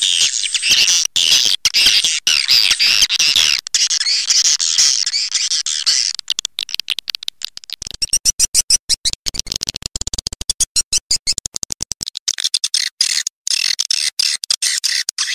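Swiftlet calling-sound recording, a lure call played to draw swiftlets into a nesting house. For the first six seconds it is dense, high chirping twitters. Rapid trains of clicks follow until about twelve seconds in, and then the chirping returns.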